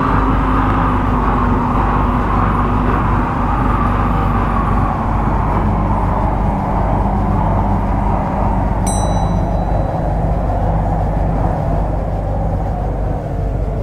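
MTR Kwun Tong Line C-Train running on the rails, a steady rumble of wheels and motors with a low hum. The pitch of the running noise drifts slowly lower as the train slows. A short high chirp sounds about nine seconds in.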